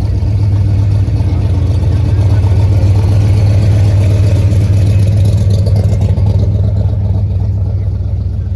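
Classic car engine running with a low, steady rumble that eases off a little near the end.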